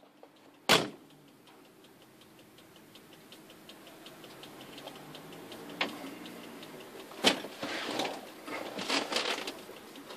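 Car sounds just before an engine start: a sharp thump about a second in, then a faint, fast, even ticking over a slowly rising hum. Two more sharp clicks follow a few seconds apart, then a rough, uneven noise in the last couple of seconds.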